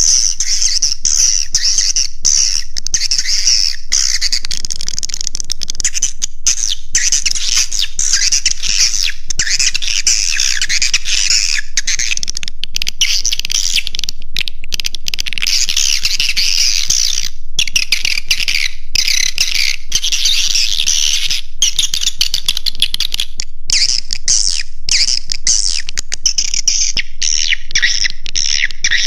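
Edible-nest swiftlet calls from a swiftlet lure recording: a dense, unbroken chorus of high, rapid chattering twitters, the roosting call played to draw swiftlets in and settle them.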